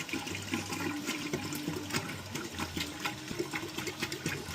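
Water pouring from a bottle into the top reservoir of a gravity water filter.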